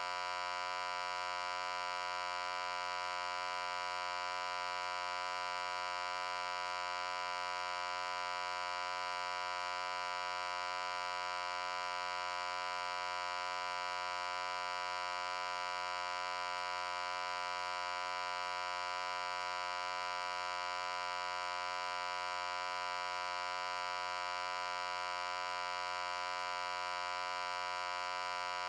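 A loud, unbroken electric hum held at one pitch, buzzy with many overtones and no change in level.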